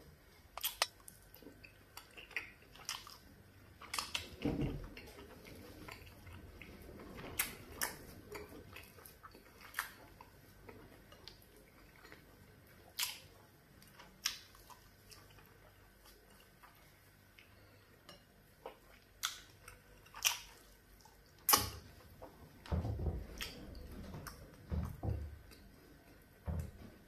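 Close-miked mouth sounds of a person eating soft fufu and soup by hand: wet smacks and clicks of chewing at irregular intervals, with a few duller low thuds about four seconds in and again near the end.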